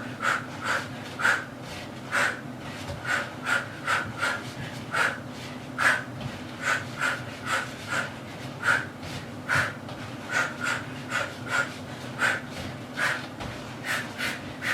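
Sharp, forceful exhalations through the mouth, about two a second in uneven groups, one with each punch and knee drive of a shadowboxing combination, over a faint steady low hum.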